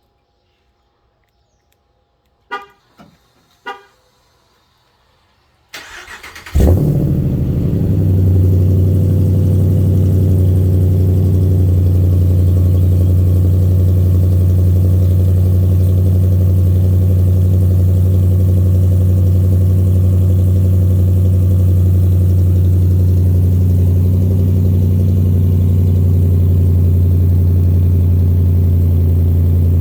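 Three short chirps, then a car engine with an upgraded aftermarket exhaust cold-starting: a brief crank, it catches with a loud flare about six and a half seconds in, then settles into a steady, deep idle.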